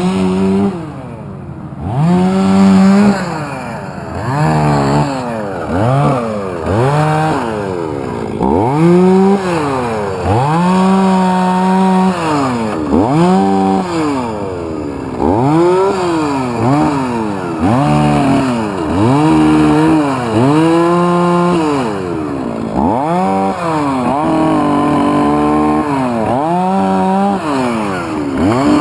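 Chainsaw revving up and down over and over, each burst held at full speed for a second or two, as it cuts through a wind-felled tree.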